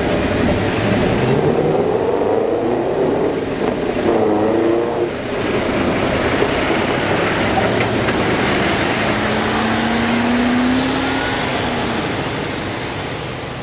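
Heavy trucks driving past in a parade, engines running with pitch that rises and falls, and one long held tone about two-thirds of the way through. The sound fades away near the end.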